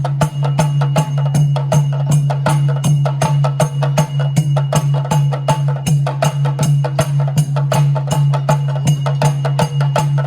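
Tharu folk dance music: a fast, even beat of sharp wooden clacks, about four a second, with drum, over a steady low hum.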